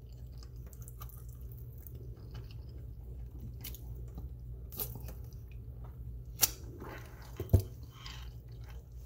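A person chewing and biting a chicken wing close to the mic, with soft wet mouth clicks over a steady low hum. Two sharper clicks come about two-thirds of the way through.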